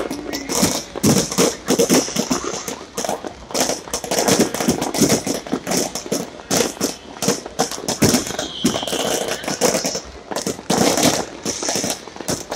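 Fireworks bursting in quick succession, a dense run of sharp bangs several a second with crackling between them.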